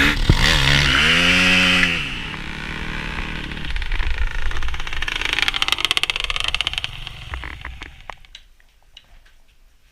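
KTM 250 SX-F four-stroke single-cylinder dirt bike engine revving hard, then cutting out abruptly about two seconds in. A fast mechanical rattle follows, slowing and fading away: the engine blowing up.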